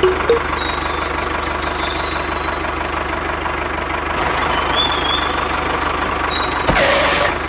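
A small motor running steadily with a fast, even buzz, the kind of drive motor used in DIY model tractors.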